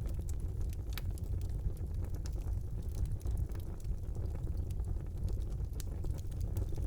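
Wood fire burning in a brick fireplace: a steady low rumble of the flames with scattered sharp crackles and pops.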